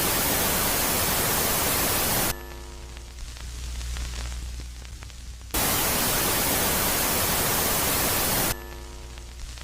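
Ambient space-sound track presented as the sound of Jupiter's moon Megaclite. Loud, even white-noise static switches on and off abruptly, alternating with a quieter phase of low hum and faint steady tones. The static fills the first two seconds or so and comes back about halfway through for about three seconds.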